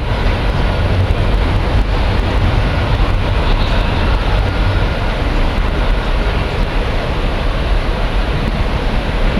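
Docklands Light Railway train passing over the elevated track: a steady rumble with no sharp events, mixed with outdoor noise that is heavy in the low end.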